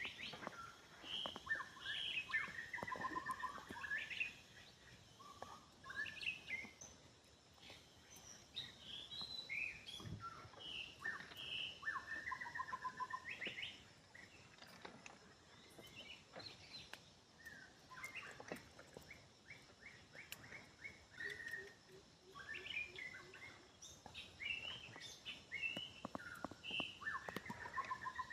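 Several wild birds chirping and calling, with short chirps and quick trills overlapping throughout, and a few faint taps and clicks between them.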